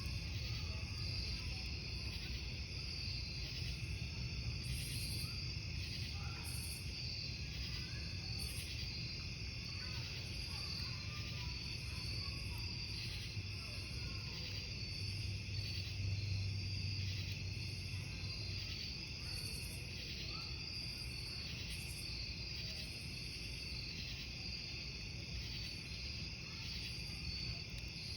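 Crickets chirping steadily in a dense chorus, over the low rumble of a burning wood campfire.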